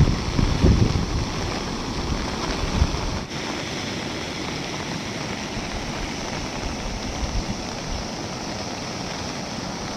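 Steady rushing noise of flowing floodwater, with wind buffeting the microphone in the first three seconds. The sound changes abruptly about three seconds in to a steadier, even rush.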